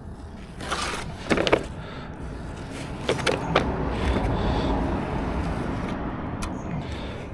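Small hand trowel working a wet concrete surface: a few sharp knocks, then a stretch of steady scraping across the concrete.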